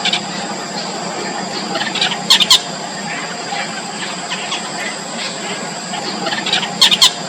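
Four-day-old nestlings begging with faint, high, squeaky calls repeated throughout, rising to two short, loud flurries of sharp cheeps about two and a half seconds and seven seconds in.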